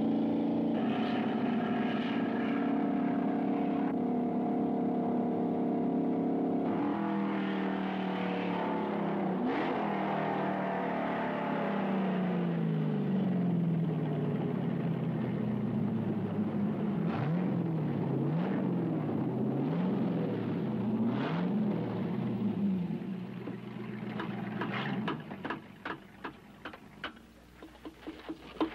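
Corvette Sting Ray V8 engine running hard on the test track, its pitch climbing and dropping again and again as the driver works the floor shifter. The engine sound falls away a few seconds before the end, leaving a few sharp clicks.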